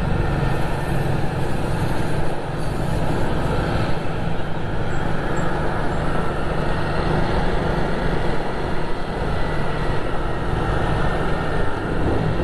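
Motor vehicle engine running steadily under road and wind noise.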